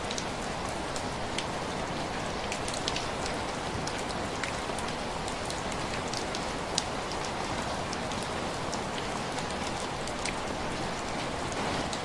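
Steady heavy rain falling, with many small sharp ticks of drops scattered through the even hiss.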